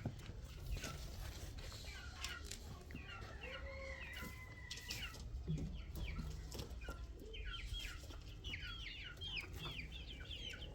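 Chickens clucking, with a quick run of high chirping calls in the second half.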